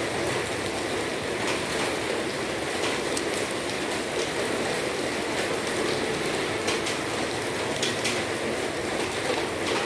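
Steady afternoon rain falling, an even hiss with scattered sharp ticks of single drops striking.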